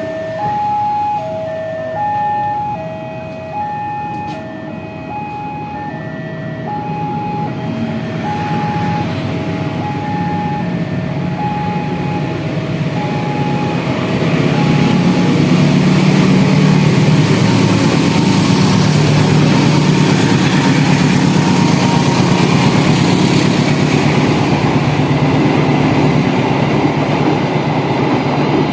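Level-crossing warning signal sounding a two-tone alternating beep, about two tones a second, which fades over the first several seconds. A CC 203 diesel-electric locomotive and its train approach and pass, the engine drone and wheel noise growing loud from about halfway and staying loud.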